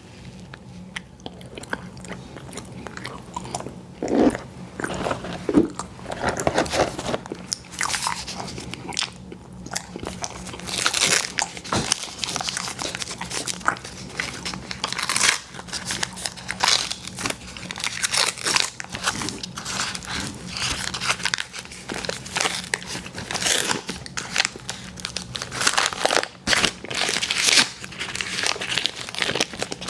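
A person eating close to the microphone: repeated bites and chewing with a crunchy, crackly texture, in irregular bursts.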